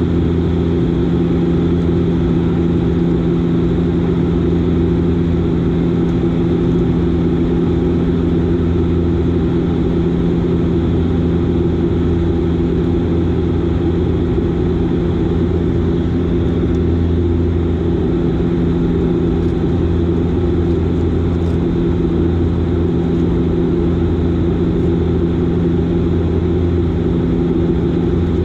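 Dash 8 Q400 turboprop's Pratt & Whitney PW150A engines and six-bladed propellers droning steadily during the descent, a constant propeller hum with several steady low tones over a rumbling noise.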